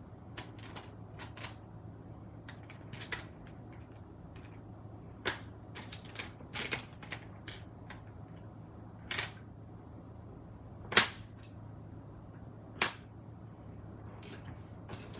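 Scattered small clicks and taps of hard craft tools handled on a tabletop while ink is applied to paper, irregular and sharp, the loudest two knocks about eleven and thirteen seconds in, over a low steady hum.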